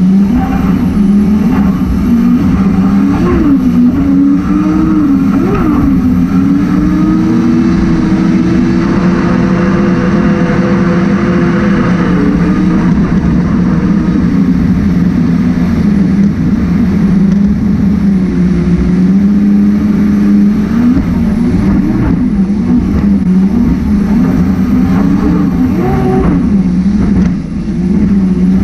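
Racing jet boat's engine running hard, its pitch rising and falling as the throttle is worked, over a steady rush of noise. The sound drops briefly near the end.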